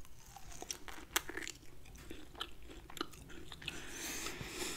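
A person biting into and chewing a grilled lamb chop close to the microphone: a run of sharp mouth clicks and smacks, the loudest about a second in.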